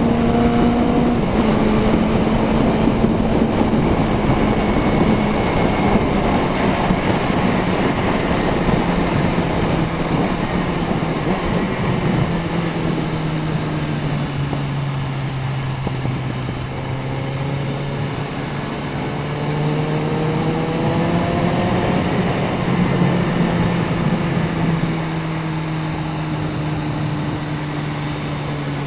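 Suzuki Bandit 650N's inline-four engine running under way, heard from the bike itself. The engine note drops about a second in, sinks slowly, climbs again a little past the middle, then eases off toward the end.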